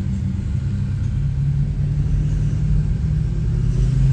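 Car engine running steadily under way, with low road rumble. The engine note grows a little louder near the end.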